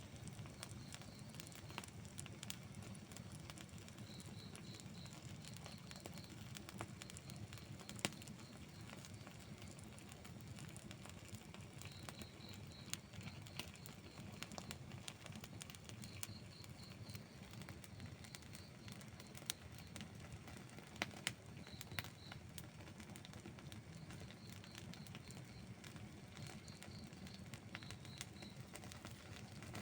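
Wood campfire burning with a low, steady rumble and scattered crackles and sharp pops. A high chirp recurs every few seconds in short groups of three or four notes.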